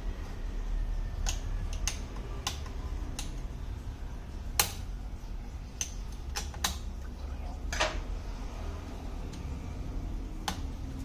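Scattered sharp clicks and taps, about a dozen at irregular intervals, over a steady low hum: small hand tools clicking against the parts of an opened Surface Pro 4 tablet.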